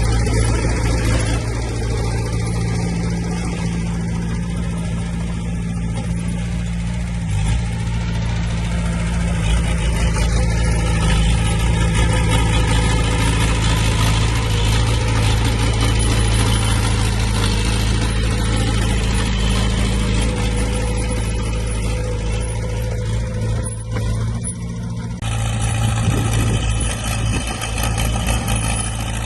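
Diesel engines of heavy earthmoving machines, dump trucks and a bulldozer, running steadily. The engine note shifts about seven seconds in and again near the end.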